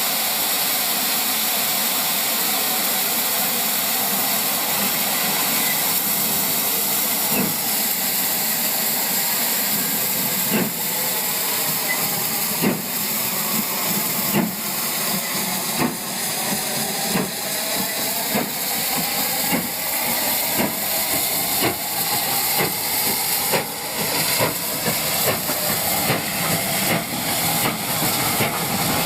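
Steam locomotive hissing steam. From about seven seconds in, sharp beats join the hiss and come steadily closer together as it gets moving.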